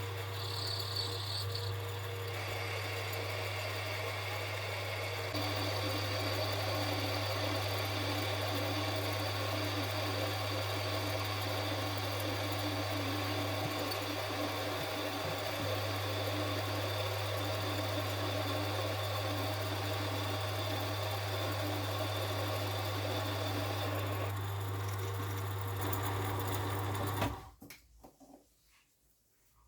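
Small metal lathe running on its electric motor, a steady mechanical whir over a strong low hum. It gets slightly louder about five seconds in and stops suddenly near the end.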